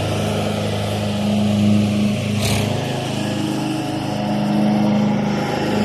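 Craftsman riding lawn mower engine running with a steady drone, about as loud as bagpipes. A short burst of noise cuts across it about two and a half seconds in.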